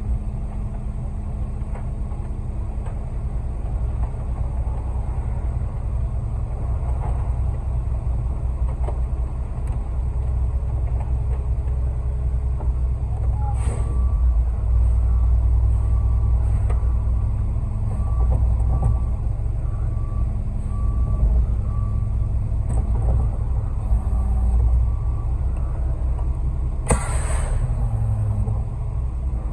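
Concrete mixer truck's diesel engine running with a steady low rumble. From about halfway through, a back-up alarm gives a row of short, even beeps for several seconds. Near the end there is a short, loud hiss of air.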